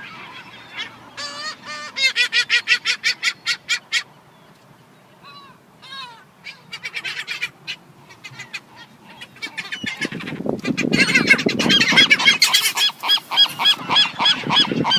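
Seagulls calling: a fast run of repeated calls, then a few scattered falling calls, then many gulls calling loudly over one another from about two-thirds of the way in, with a low rushing noise underneath.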